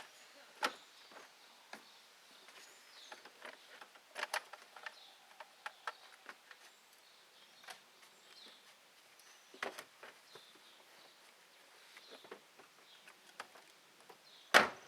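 Quiet outdoor background with faint high chirps and scattered light clicks and knocks, then one louder thud near the end.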